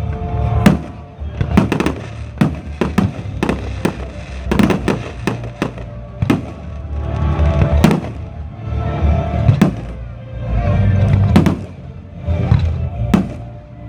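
Fireworks display bursting in a rapid, irregular series of loud bangs, several a second at times, over music played for the show.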